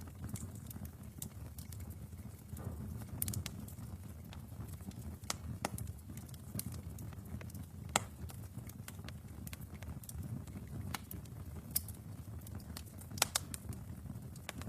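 Wood fire burning in a fireplace: irregular sharp crackles and pops over a low steady rumble of the flames, with a couple of louder pops about 8 and 13 seconds in.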